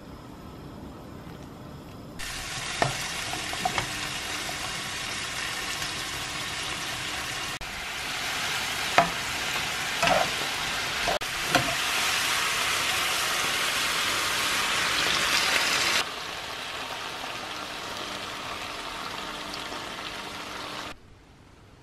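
Sliced onion and mushrooms sizzling in a frying pan, with a few sharp knocks of a spatula against the pan. The sizzle grows louder and quieter as the shots change.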